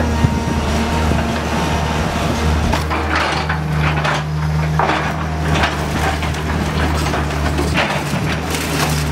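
A heavy demolition machine's engine runs steadily while wooden building material is crushed and splintered, with bursts of cracking and snapping from about three seconds in.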